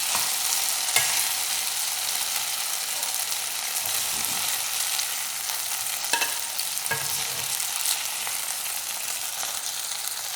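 Chicken pieces sizzling in butter in a non-stick pan, a steady frying hiss, with a few light knocks of a utensil against the pan as the pieces are lifted out.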